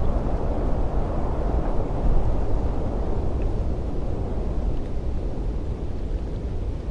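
Cold wind blowing, a deep, steady rushing noise that swells a little around two seconds in and eases slightly toward the end.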